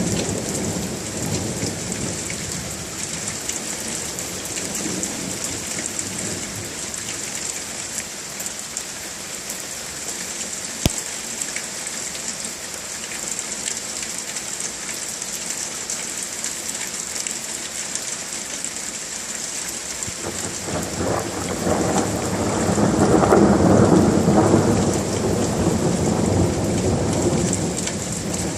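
Steady rain falling, with thunder rumbling at the start and a long, louder roll of thunder building about two-thirds of the way through. A single sharp click comes just before the midpoint.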